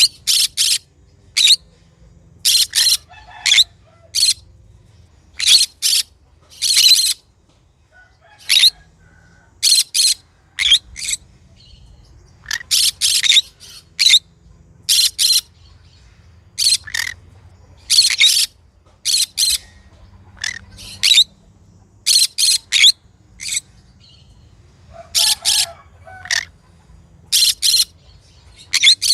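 Green conure calling over and over: short, shrill, high-pitched screeches, often in quick runs of two or three, coming every second or so with irregular gaps.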